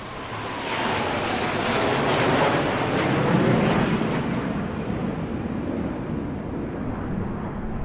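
Small Tamiya DC motor spinning a toy plane's propeller, whirring with air rushing over the microphone. A whine drops in pitch over the first few seconds.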